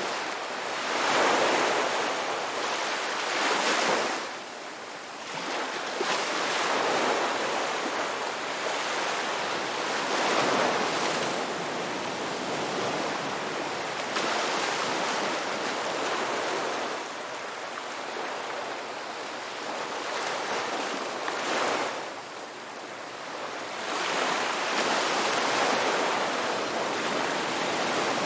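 Ocean waves breaking and washing on a rocky beach, a steady surf that swells and eases every few seconds.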